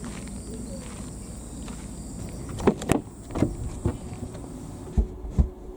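Crickets chirping steadily, with a handful of short knocks and clicks from something being handled about halfway through. Near the end the insect sound drops away.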